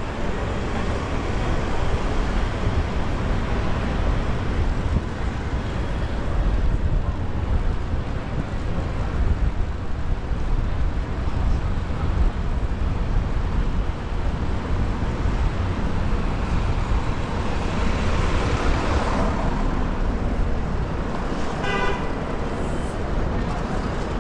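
Wind rumbling over a camera microphone on a moving bicycle amid city traffic noise, with a short horn toot near the end.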